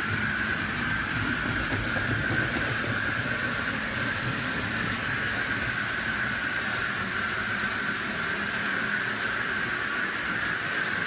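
OO gauge model train running steadily along the track: a continuous whir of its motor and wheels, with a few faint clicks near the end.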